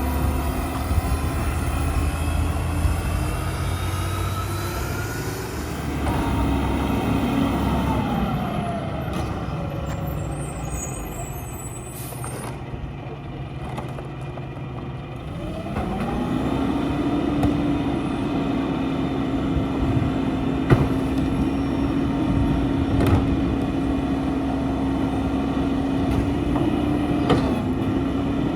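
Mack LEU garbage truck engine running at raised revs, slowing to idle about six seconds in, then revving back up about sixteen seconds in and holding steady. A few sharp knocks and clunks sound through it.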